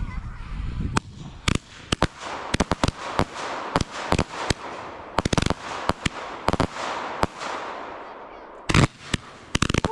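Fireworks going off: a rapid, irregular string of sharp bangs over a steady crackle, with the loudest pair of bangs near the end.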